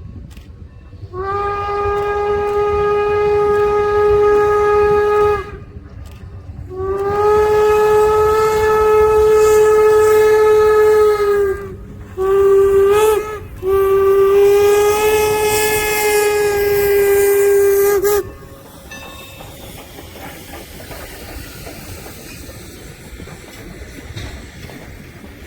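Steam whistle of Norfolk & Western 4-8-0 No. 475 blowing two long blasts, a short one and a final long one: the long-long-short-long grade-crossing signal. A quieter hiss of the running train follows.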